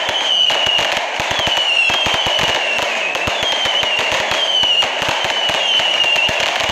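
Fireworks display of firework cake batteries firing without pause: rapid, overlapping bangs and crackling bursts. A high whistle recurs about every second and a half, each one dipping slightly in pitch.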